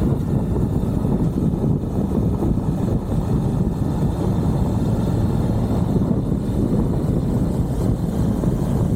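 Suzuki V-Strom 1050XT's V-twin engine running steadily while riding, mixed with a low, even rush of wind on the onboard microphone.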